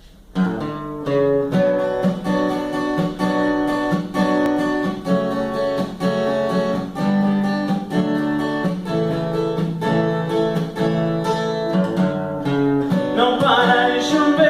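Acoustic guitar strummed in a steady rhythm, playing a sertanejo song's intro; a voice starts singing near the end.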